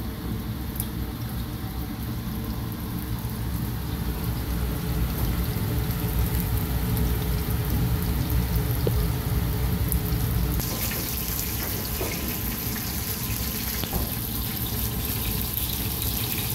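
Breadcrumbed fish fillets frying in oil in a pan on a gas stove: a steady sizzle over a low hum, the sizzle growing louder and brighter about ten seconds in.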